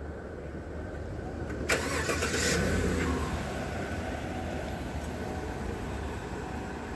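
A car engine starting about two seconds in, a short loud burst of cranking as it catches, then running steadily.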